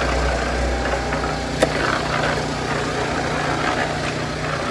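An engine running steadily with a low hum, with one sharp click about a second and a half in.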